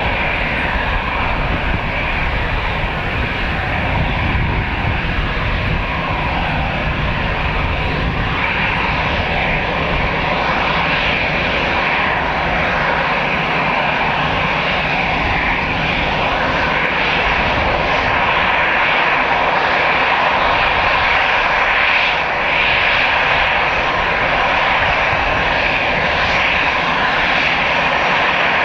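Airbus A320-214 jet airliner's CFM56 turbofan engines at taxi power, a steady jet whine and rush, growing slightly louder toward the end.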